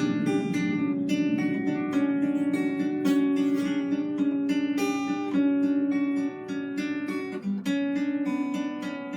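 Guitar being played: a quick run of plucked notes over a repeating low note.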